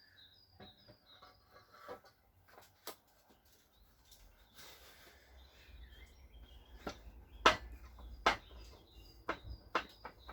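A small bird chirping in quick short runs, with several sharp knocks and clicks, the loudest about seven and a half seconds in, over a low rumble in the second half.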